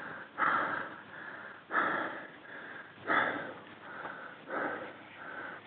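A person breathing hard near the microphone, a soft noisy breath about every second and a half.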